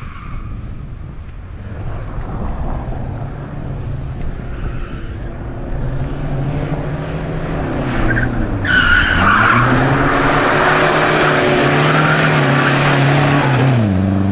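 Rally car coming closer at speed, its engine note climbing and getting louder. About nine seconds in there is a loud rush of skidding tyres as it arrives close. Through the slide the engine drops briefly and then revs up again, and the noise falls away near the end.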